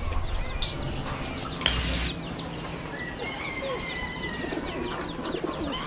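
Indoor flock of birds calling: pigeons cooing and smaller birds chirping in quick short notes, with one sharp click about a second and a half in.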